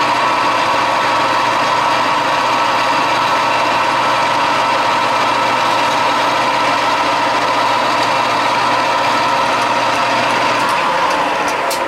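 Metal lathe running steadily with a high, even whine, then the tone drops and fades near the end as the machine is switched off and the spindle slows, with a few light clicks.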